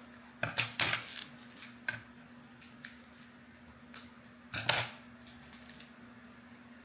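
A few light knocks and clicks of small objects being handled on a table, loudest a little under five seconds in, over a faint steady hum.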